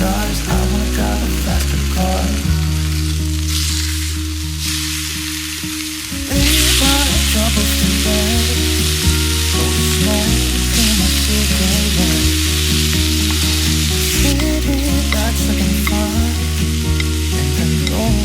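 Food sizzling in a frying pan over instrumental background music. The sizzle gets louder about six seconds in and drops back near fourteen seconds.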